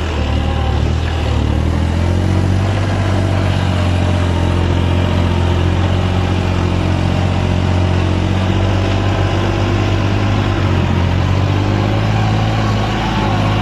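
Tractor's diesel engine running steadily at a constant speed, a loud even note with no change in pitch.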